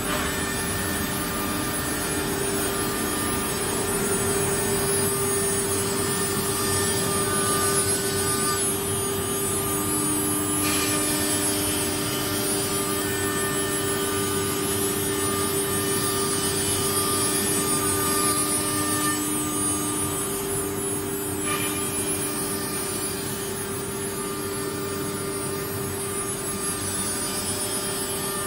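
Spindle of a CNC wood router running with a steady high whine over machining noise. A second, lower tone joins for about ten seconds in the middle, and there is a brief click twice.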